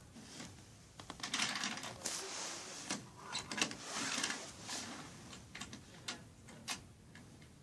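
Clicks and rattles of small plastic and metal model-train parts being handled while a stalled HO-scale train is checked over by hand. A busy stretch of scraping and clattering runs from about a second in to the middle, followed by scattered single clicks.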